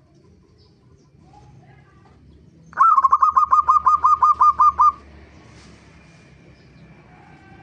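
Zebra dove (perkutut) calling: a fast, even run of about fourteen short, clipped notes over two seconds, starting about three seconds in.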